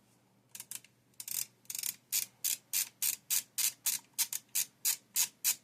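Ratcheting screwdriver clicking as a screw is backed out of a graphics card's shroud: a few uneven clicks at first, then a steady run of about three clicks a second.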